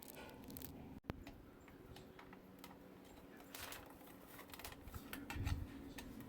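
Faint scattered clicks and taps over a low steady hum, with one sharp click about a second in.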